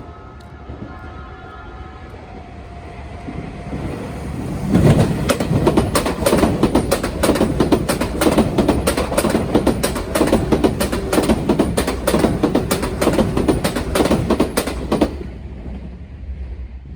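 Sotetsu electric train running over the rail joints of a turnout. Its approach builds for a few seconds, then about ten seconds of loud, rapid clacking as the wheels strike the switch joints, fading away near the end.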